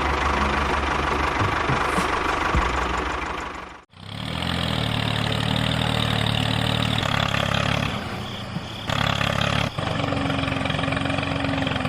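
Small engine of a mini construction vehicle running steadily. It cuts out abruptly about four seconds in and resumes with a slightly different pitch, then changes again twice near the end.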